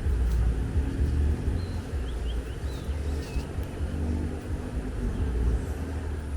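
Strong wind buffeting the microphone, a gusty low rumble that rises and falls. A few faint short bird chirps come through in the middle.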